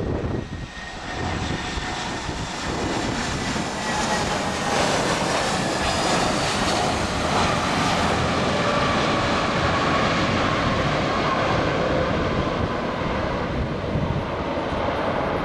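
Jet airliner's engines passing close on its landing approach: a steady rush that grows louder about three seconds in, with whining tones slowly falling in pitch.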